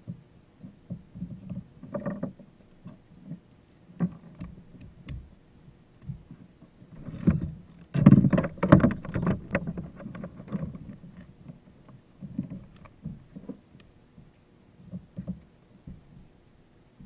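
Irregular knocks and bumps on a Hobie Outback kayak's plastic hull, with a cluster of louder knocks about eight seconds in.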